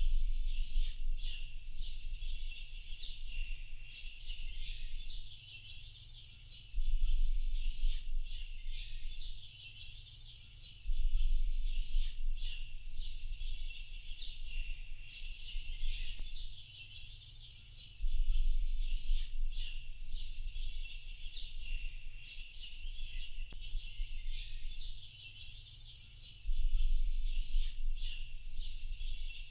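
Dense chorus of many small birds chirping and twittering without pause. A low rumble cuts in abruptly and drops away again every few seconds.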